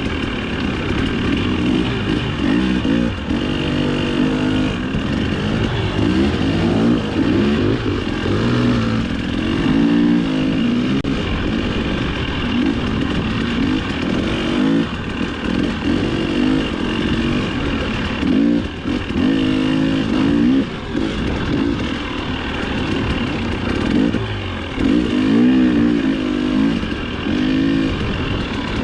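Dirt bike engine revving up and down again and again as the throttle is worked, pitch rising and falling every second or two.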